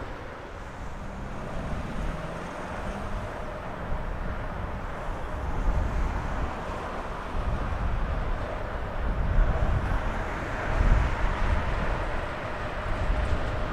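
A train rolling past, its wagons rumbling over the track with now and then a heavier thump.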